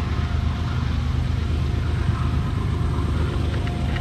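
BNSF intermodal freight train of double-stacked containers on deep-well cars rolling steadily past, a constant rumble with a low engine drone.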